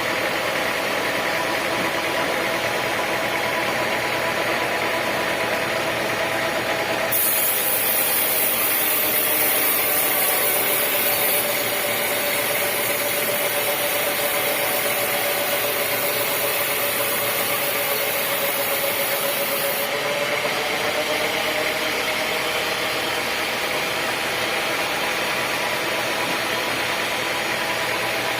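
Sawmill saw machinery running steadily with a droning hum. From about seven to twenty seconds in, a high hiss is added, and the hum's pitch sags slightly before recovering.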